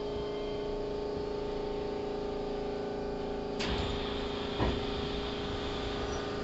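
Keihan 3000 series electric train at a standstill, heard from inside the car: a steady hum of the onboard equipment with several fixed tones. About three and a half seconds in a hiss comes in and stays, and a short low thump follows a second later.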